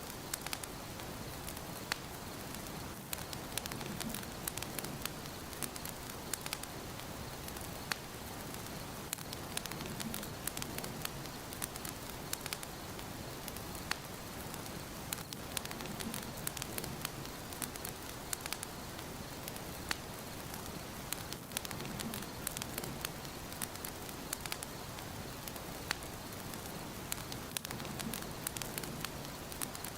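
Wood fire burning in a fireplace: a steady soft hiss of flames with frequent sharp crackles and pops of burning wood, and a gentle low swell of the flames about every six seconds.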